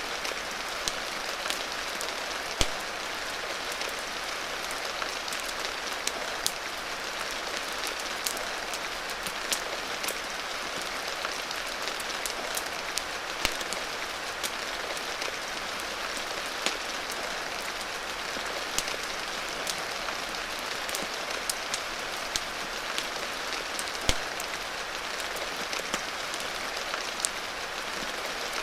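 Steady rain hiss mixed with occasional sharp crackles and pops from a wood fire, spaced irregularly.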